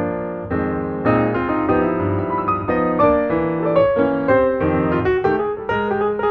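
Background music played on piano, a run of quick notes at a steady level.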